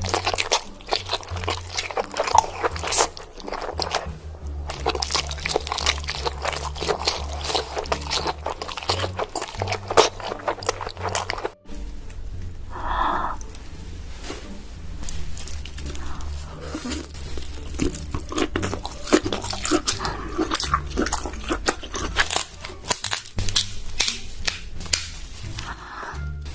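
Close-miked king crab eating: many sharp cracks and crunches of shell and wet chewing, over background music with a steady bass line. The sounds break off for a moment about halfway through.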